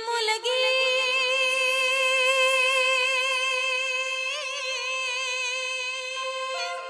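A woman's voice singing a long, held note in a devotional Marathi kirtan, with a brief wavering ornament about two-thirds of the way through before the note ends near the close.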